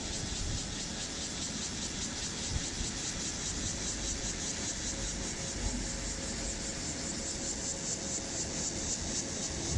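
Rice combine harvester running steadily: a constant machine noise with a high hiss over it.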